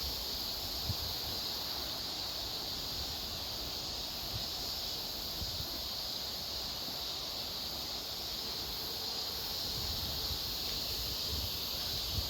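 Outdoor ambience: wind gusting on the microphone in low rumbles, stronger near the start and again near the end, over a steady high-pitched hiss.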